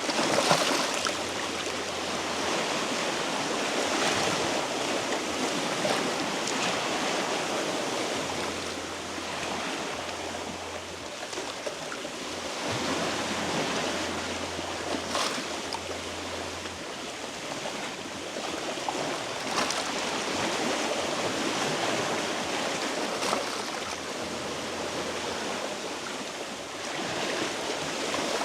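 Sea waves washing against shoreline rocks, the wash swelling and easing every few seconds, with a few sharper splashes.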